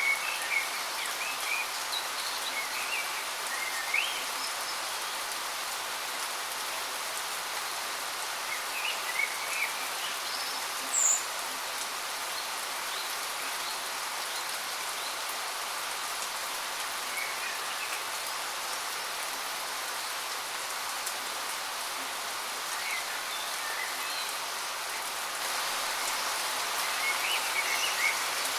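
Waterfall's steady rush of falling water, with short bird chirps scattered over it every few seconds; the water gets a little louder near the end.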